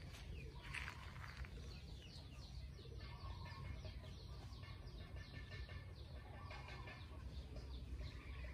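Faint outdoor bird calls, many short quick chirps through the middle, over a low steady rumble.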